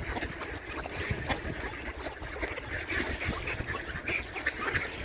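A flock of ducks quacking, many short calls overlapping, as they crowd in to be fed on open winter water.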